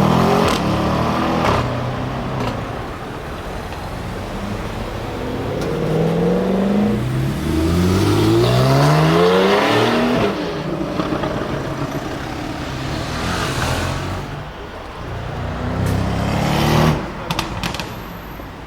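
Audi RS6 Avant C7's twin-turbo V8 with the optional Audi Sport exhaust, accelerating. Its engine note climbs in steps through the gears about six to ten seconds in, then comes a second loud burst that cuts off suddenly near the end.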